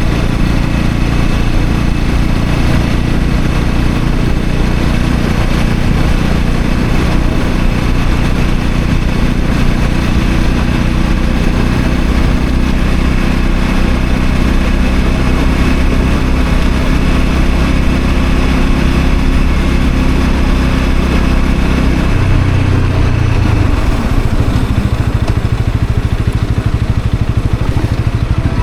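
Honda CL250 motorcycle engine running steadily under way. About three-quarters of the way through, the engine note drops lower.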